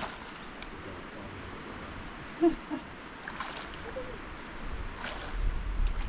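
Canoe paddle strokes in the water, a swish every second or two over a steady wash of water. A short low squeak comes about two and a half seconds in, and wind rumbles on the microphone near the end.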